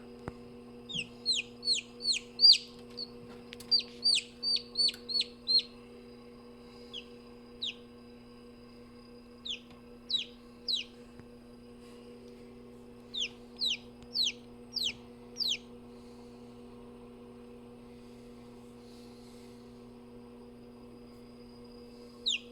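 Newly hatched chicks peeping: runs of short, high, falling peeps in several groups with pauses between them, then a quiet stretch near the end. A steady low hum runs underneath.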